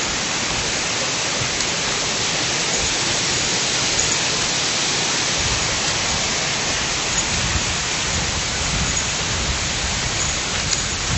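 Steady rushing of water, an even hiss with low rumbling that comes in about five seconds in.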